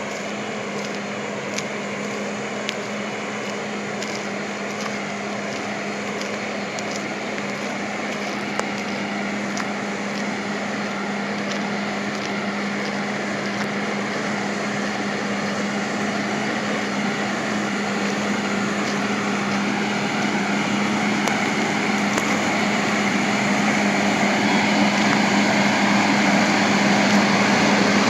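A vehicle's engine running steadily with a constant hum and a wash of mechanical noise, slowly growing louder.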